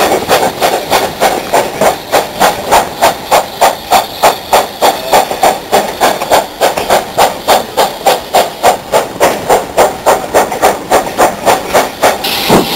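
Steam locomotive working steadily, its exhaust chuffing in even beats about four a second. Near the end a burst of steam hiss joins the beats.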